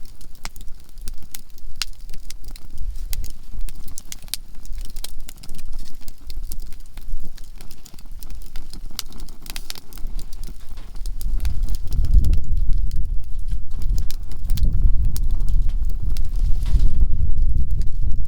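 Conifer firewood burning in a campfire, crackling with frequent sharp pops and snaps. About two-thirds of the way through, a loud, uneven low rumble rises and dominates over the crackling.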